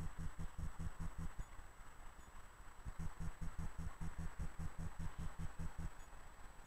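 DSB S-train electric multiple unit approaching, heard faintly at a distance. A steady low throbbing of about six pulses a second runs under it, with a thin high whine.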